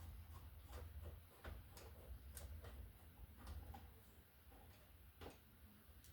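Faint, irregular small clicks and taps of a screwdriver and metal or plastic cover plate being handled on a wall receptacle box, with the clearest click about five seconds in.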